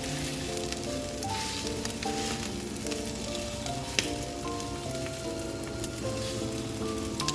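Boneless chicken thigh pieces sizzling in a frying pan, with scattered crackles and one sharp pop about four seconds in. Background music with a simple melody plays throughout.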